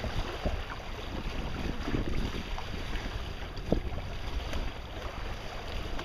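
Wind buffeting the microphone and water washing past a sailboat under way, with a few short knocks, the sharpest a little past halfway.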